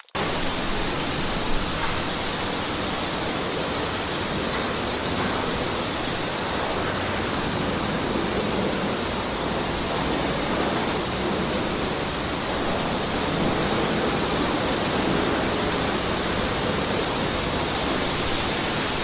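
Steady rush of water, like water pouring or splashing from a small DIY water pump's outlet. It starts abruptly, holds an even level without changing, and cuts off suddenly near the end.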